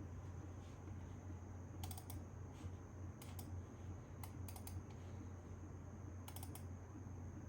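Computer keyboard keys clicking in a few short bursts of typing, with pauses between, over a steady low hum.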